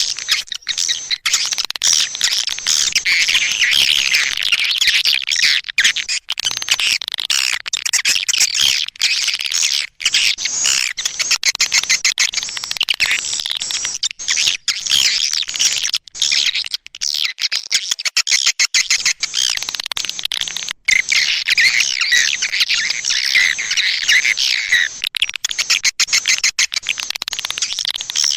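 Swiftlet calling track: dense, continuous twittering and rapid chirps from many swiftlets, high-pitched, with brief breaks. This is the kind of recorded lure call played to draw swiftlets into a nesting house.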